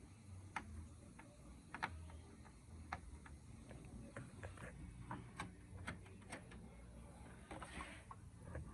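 Faint, irregular clicks and light taps of hand tools and parts being handled, one or two a second, over a low hum.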